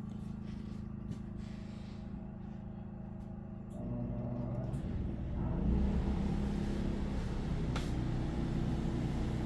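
Pulsar PGD40ISCO inverter generator humming steadily. About four seconds in, and again a second and a half later, the hum shifts and grows louder as the RV air conditioner starts on low and the generator takes up the load. A sharp tick near the end.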